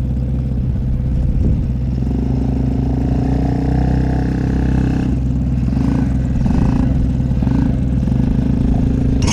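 A small ATV engine idling steadily, with an even, unchanging pitch.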